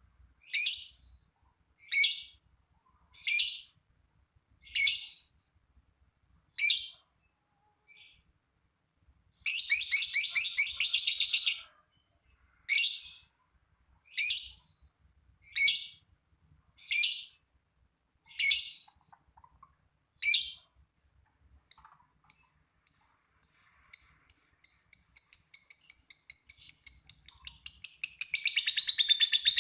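Lovebird calling: single sharp chirps about every one and a half seconds, a short burst of rapid chatter around ten seconds in, then calls quickening from about twenty seconds into a long, continuous rattling chatter, the 'ngekek panjang' (long cackle) song prized by lovebird keepers.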